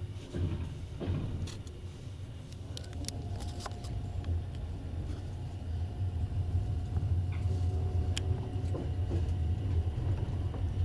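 Passenger train running along the track, heard from inside the carriage: a steady low rumble with scattered short clicks and creaks, growing slightly louder about halfway through.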